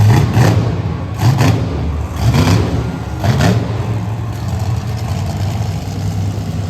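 Monster truck engine revving in four short blips within the first four seconds, then running more steadily.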